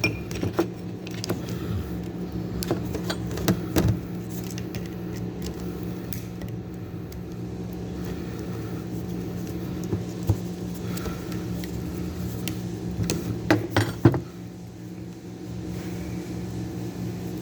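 Metal clinks and taps of tools and starter-motor parts being handled, in scattered clusters with the sharpest near the end, over a steady low hum.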